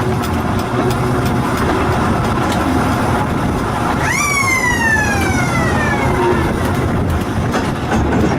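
Steady rumble of a small electric railway car running. About four seconds in, a loud whine starts suddenly and slides down in pitch over about two seconds.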